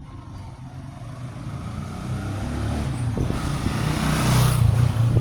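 A motor vehicle's engine running and growing steadily louder to a peak about four and a half seconds in, as if approaching and passing close by.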